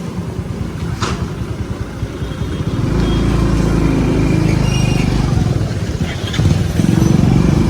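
Motor vehicle engine and road noise while travelling along a street, growing louder about three seconds in.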